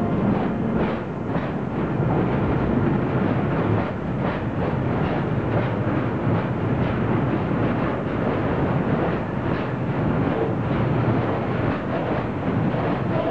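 Freight train passing at speed: an SNCF BB 27000 electric locomotive goes by at the very start, then its hopper wagons roll past with a continuous rumble of wheels on rail and repeated clacks as the wheelsets cross rail joints.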